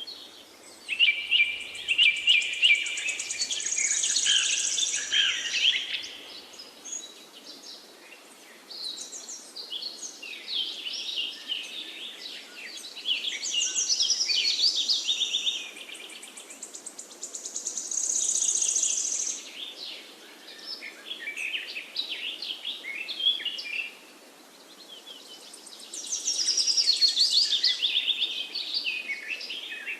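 Songbirds singing: phrases of rapid chirps and trills a few seconds long, about half a dozen in all with short pauses between, over a steady background hiss.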